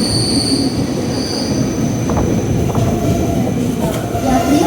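Train wheels squealing on the rails over a steady rumble of a moving passenger train, the squeal pulsing high-pitched in the first second and a half, then a thinner whine fading out by about three seconds.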